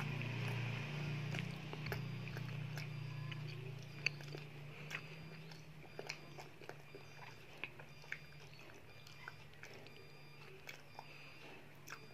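A child chewing mouthfuls of chicken satay, with many small wet mouth clicks and smacks throughout. A steady low hum runs underneath and is louder in roughly the first half.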